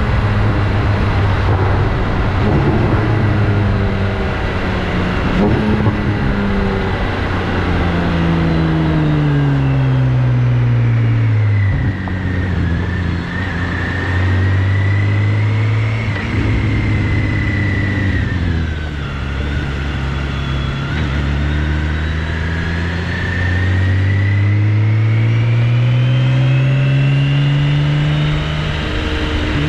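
BMW K1600GTL's inline-six engine through an aftermarket Hattech exhaust, heard while riding. The pitch falls and rises several times as the bike slows and accelerates, with a sudden drop about 12 seconds in and another near the end, typical of gear changes.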